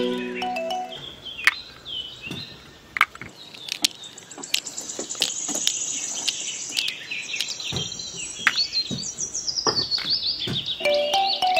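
Birds chirping, with quick high calls and fast runs of repeated notes, and scattered sharp clicks and taps. Background music fades out about a second in and comes back near the end.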